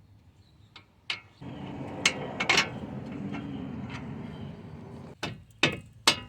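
Metal clicks and clinks of a bolt and tools being worked into the lower mounting holes of a steering knuckle, with a steady rushing noise for about four seconds in the middle and a quick run of sharp clicks near the end.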